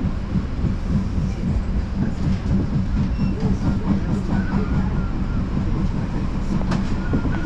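Odakyu Line electric commuter train running, a steady low rumble of wheels on the rails. A faint thin whine comes in a little past halfway, and there is a single sharp click near the end.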